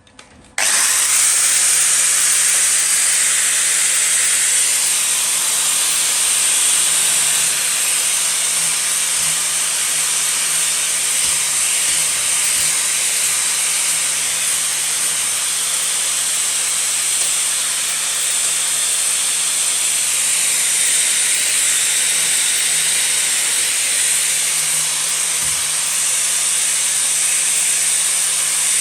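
Angle grinder cleaning up steel exhaust baffle parts: a steady, loud grinding hiss over the motor's hum, starting suddenly about half a second in.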